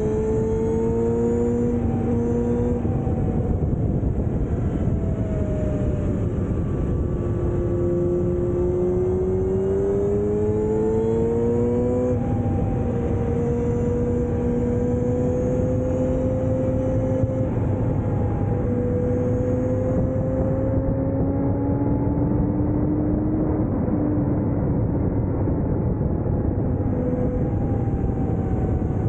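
Kawasaki ZX7R's inline-four engine running under way through its Akrapovič exhaust, its pitch climbing and easing over several seconds with a few sudden drops. Steady wind and road noise lies underneath.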